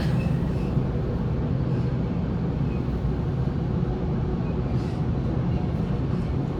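Steady running noise of a Sydney Trains Waratah A set electric train in motion, a constant low rumble.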